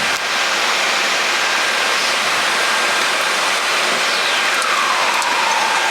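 Steady rush of airflow and air-conditioning noise on a Boeing 737 MAX flight deck in descent. About four seconds in, a whistle-like tone slides down in pitch and then holds steady near the end.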